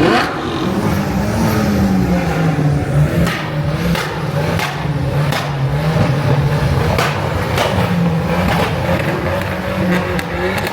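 Car engine running, its pitch wavering up and down, amid the loud din of a crowded car meet.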